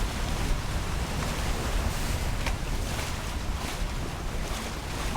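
Wind buffeting the microphone over the steady rush of water along the hulls of a catamaran under way in choppy water.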